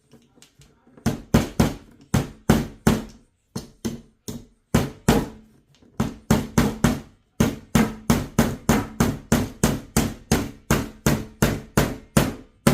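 Hammer driving nails into the joints of a wooden beehive box: a few light taps, then runs of quick blows, about three to four a second, with short pauses between runs. The box sits on a plastic table that bounces under the blows.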